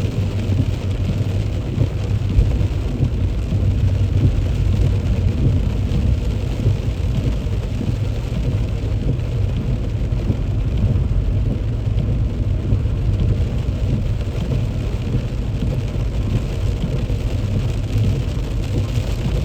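A car driving in heavy rain: a steady low rumble of road and tyre noise with the hiss of rain over it.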